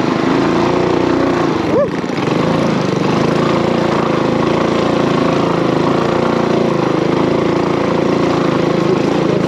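Mini bike's small single-cylinder four-stroke engine running steadily while riding, with a brief drop and quick swing in pitch about two seconds in.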